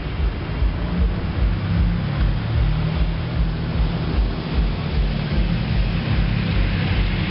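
Blazer truck's exhaust through a DNA muffler, a steady low drone that pulses about three times a second, over a hiss of wind and road noise.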